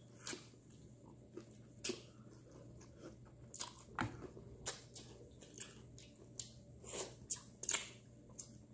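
Close-up chewing and crunching of Hot Cheetos-crusted frog legs: irregular crunches and wet mouth clicks, loudest about four seconds in and near the end.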